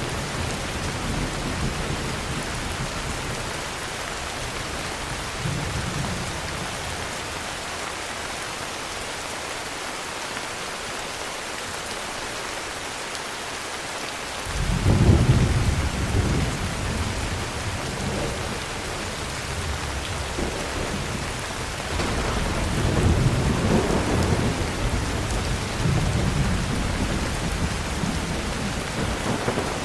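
Heavy rain falling steadily with thunder rumbling. The low thunder fades for several seconds, then a loud rumble breaks in sharply about halfway and rolls on in repeated waves.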